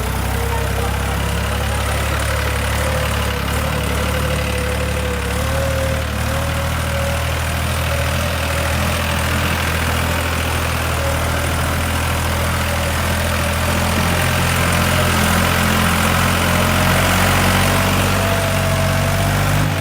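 Tractor engine running steadily as the tractor drives round in circles, with a whine above the engine note that climbs a little and grows slightly louder near the end.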